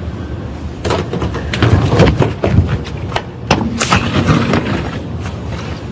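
A quick run of sharp knocks and thuds, about a dozen in roughly three seconds, starting about a second in.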